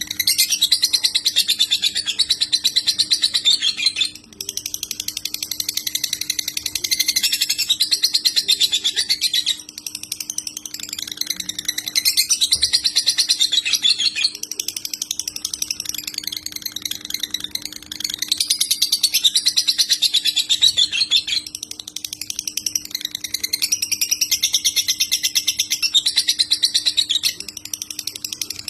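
Lovebird singing in the long, rapid 'konslet' style: fast, unbroken chattering trills held for several seconds at a time, with brief pauses between phrases. A faint steady hum lies underneath.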